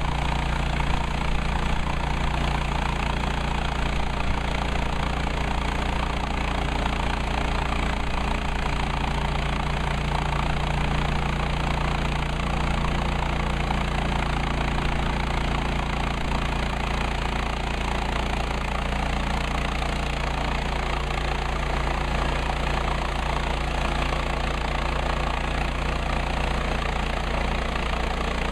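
Engine of a Woodland Mills HM130 Max portable bandsaw sawmill, running steadily at an even level.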